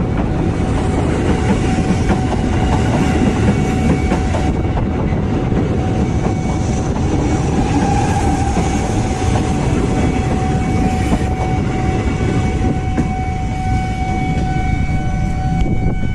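JR 203 series electric commuter train passing close by at steady speed: wheels rumbling and clattering on the rails, with a steady whine held over it.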